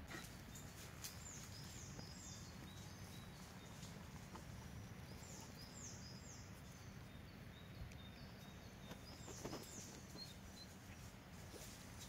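Faint songbird singing: a short phrase of three or four high, quickly falling notes, repeated three times, over quiet outdoor background noise with a few soft taps.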